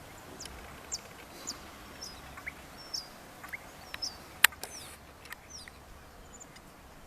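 Birds chirping: short, high, falling chirps repeated about once or twice a second over faint background noise, with one sharp click about four and a half seconds in.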